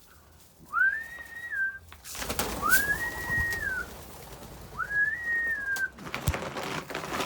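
Three whistled calls, each rising to a held note and dropping away, about two seconds apart: a bird keeper whistling to call his loft birds to feed. A rustling, clattering noise runs under the second and third whistles.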